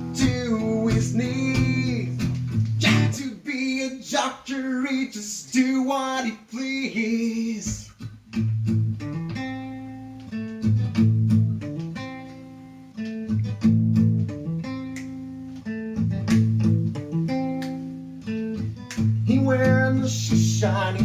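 Music: acoustic guitar strumming chords with a voice singing over it for about the first eight seconds, then the guitar carries on alone.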